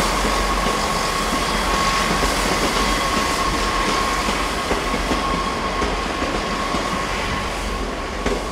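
East Midlands Railway Class 158 diesel multiple unit running over the tracks, with a steady high-pitched tone throughout and a few clicks of the wheels over rail joints.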